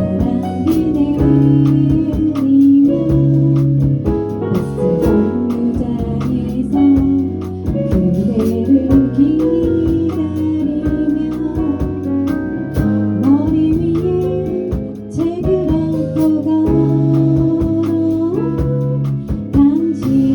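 A live band plays a song at a steady beat: keyboard chords, guitar and a pulsing bass, with a voice singing the melody.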